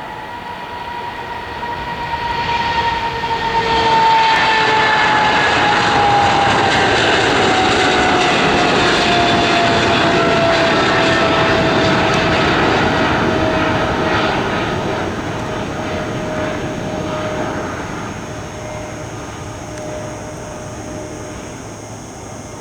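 Cargo aircraft passing close by with its engines running: a dense roar swells over the first few seconds and holds loud for about ten seconds, then fades. Over the roar the engine whine falls steadily in pitch as the aircraft goes by.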